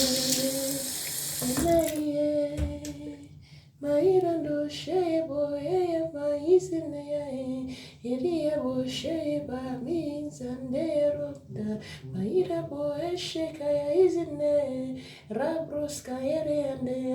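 A woman's voice singing a short melodic phrase over and over in prayer, each note rising and then falling, breaking off briefly about three seconds in. A rush of running water sounds under the voice for the first two seconds.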